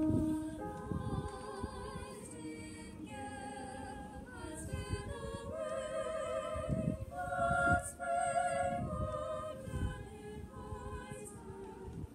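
Small choir singing a cappella: held chords with vibrato, moving from one chord to the next every second or so.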